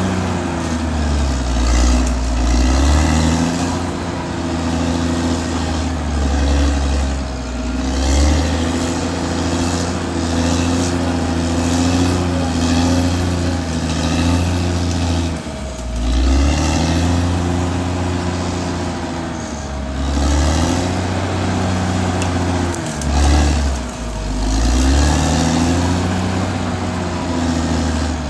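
Caterpillar D6R XL bulldozer's diesel engine working under changing load, its pitch rising and falling every few seconds as it pushes and backs off, with a steady high whine.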